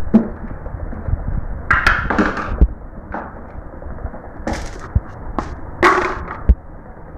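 Marbles rolling along a marble run track: a steady low rumble with scattered sharp clacks as they strike and drop through the track pieces.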